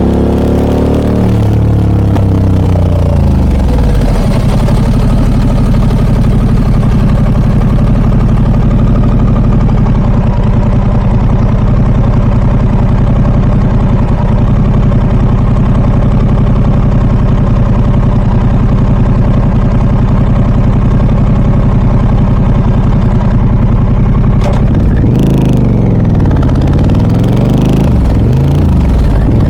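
Harley-Davidson Pan America 1250 Special's Revolution Max V-twin running through an aftermarket Scorpion exhaust. Its pitch falls over the first few seconds, holds steady for about twenty seconds, then rises and falls repeatedly with the throttle near the end.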